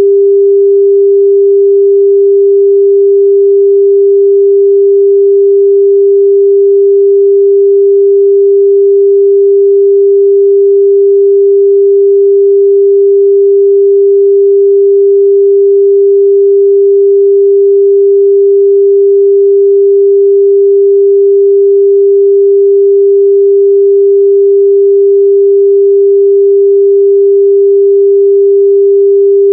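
A steady, loud pure sine-wave test tone at 398 Hz, one unchanging pitch held throughout with no overtones.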